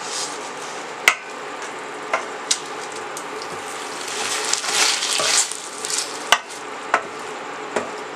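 Beef liver masala sizzling in oil in a stainless steel pan, its yogurt water cooked off so that it is now frying (bhuna stage). A wooden spoon stirs and scrapes through it, loudest around the middle, and knocks sharply against the pan several times.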